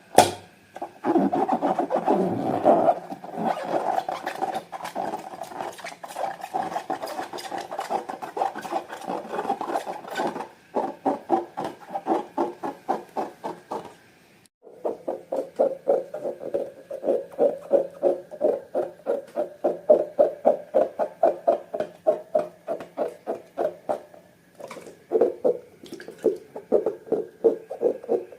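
Slime being squished and kneaded by hand: rapid wet, clicking squelches, several a second, pausing briefly about halfway through.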